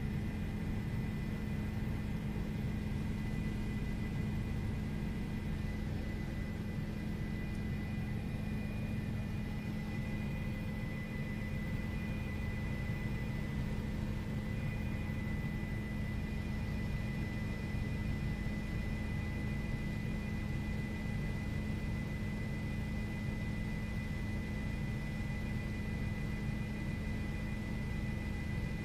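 News helicopter's steady in-flight drone: a constant low hum with a thin high whine above it and a wash of noise, never changing.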